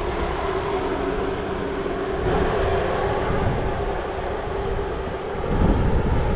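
Diesel engine of heavy earthmoving equipment running steadily, with a low rumble that grows a little louder near the end.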